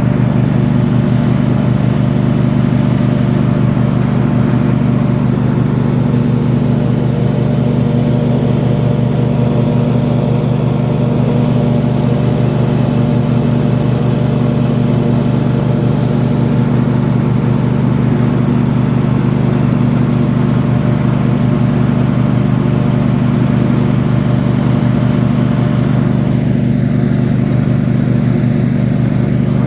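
Small petrol engine of lawn-care equipment running steadily at constant speed, with no revving or stopping.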